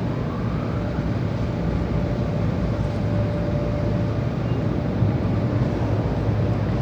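Automatic car wash heard from inside the car: a steady low rumble of the wash machinery and water spray during the rinse stage.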